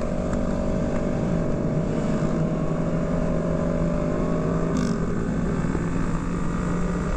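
Motorcycle engines running at a steady cruising speed, with a shift in engine pitch about five seconds in.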